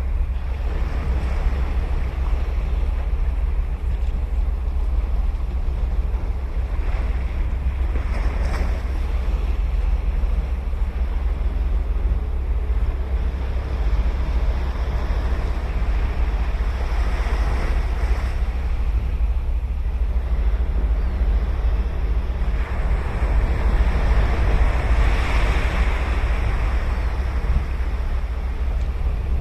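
Ocean waves breaking and washing on a sandy beach, the surf swelling several times and loudest a little over three-quarters of the way through, over a steady low rumble of wind on the microphone.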